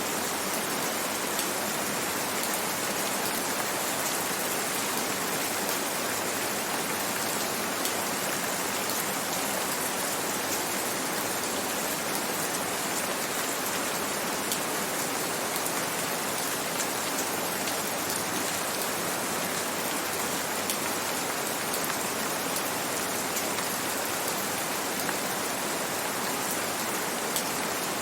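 Gentle rain falling steadily, an even hiss with the odd louder drop standing out.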